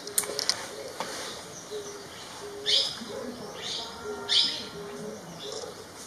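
Forest birds calling: four short, sharp calls that drop in pitch stand out over a low note repeated steadily about every two-thirds of a second. A few faint taps near the start fit a brown-fronted woodpecker pecking at bark.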